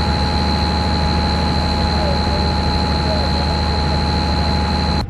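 A heavy engine running steadily, with a constant high whine over its low drone. It cuts off abruptly near the end.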